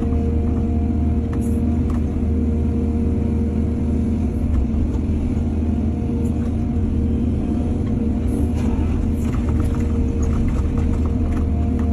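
Heavy diesel engine of an excavator running steadily with a deep rumble and a steady whine, with a scatter of light clicks and scrapes from about eight seconds in.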